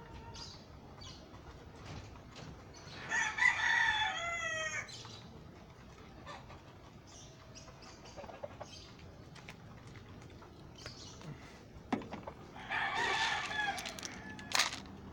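Game fowl rooster crowing twice, about ten seconds apart, each crow ending on a falling note.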